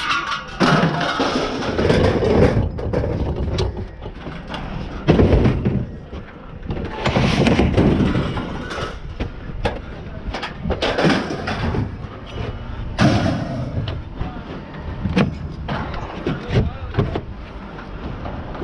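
Scrap metal being unloaded by hand: an irregular run of clanks, scrapes and thuds as pieces are dragged and dropped.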